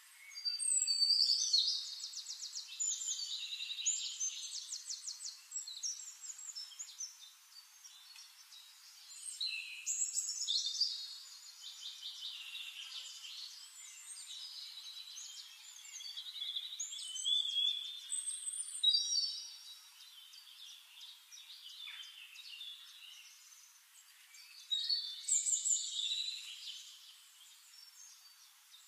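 Songbird singing phrases of fast trills and whistles, a new phrase every few seconds.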